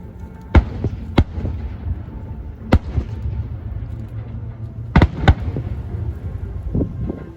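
Aerial fireworks bursting: five sharp bangs, the last two close together about five seconds in, over a steady low rumble.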